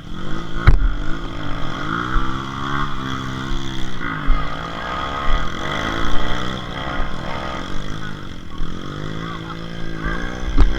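Trail motorcycle engine revving up and down again and again, its pitch rising and falling every second or two, with a sharp knock about a second in.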